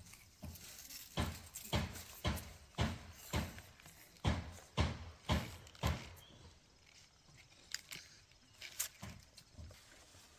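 A run of sharp knocks, about two a second, which thins out and grows fainter after about six seconds.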